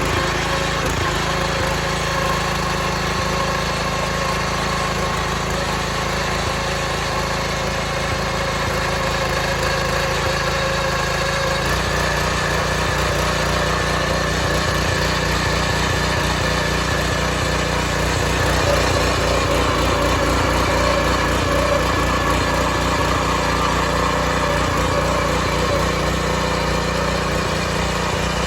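Small petrol engine of a Kaan 230S motor hoe (tiller) running steadily while tilling hard ground. The engine note shifts about twelve seconds in and gets a little louder a few seconds later.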